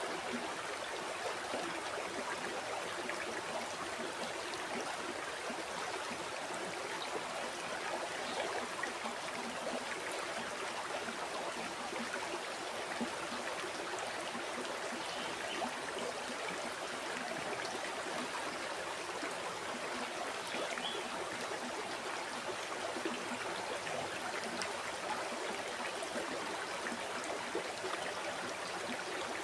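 River water flowing steadily over rocks, a continuous rushing burble of the current.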